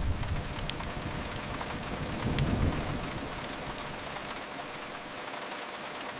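Steady hiss of rain falling on a window, with a few soft crackles from a wood fire.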